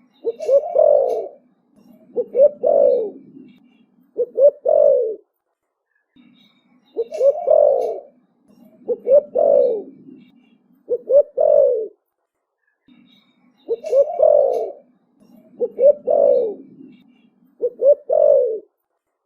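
Young spotted dove cooing in repeated three-part phrases of low coos. Each series of three phrases comes round about every seven seconds, three times over.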